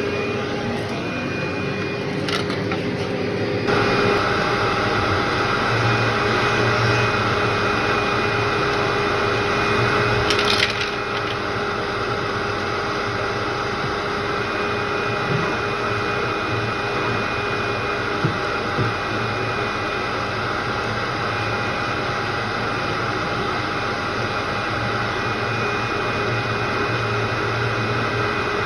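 Vacuum cleaner running over a heavily soiled carpet, with a steady motor whine under a crunchy rush of debris being sucked up. The sound grows louder and fuller about four seconds in.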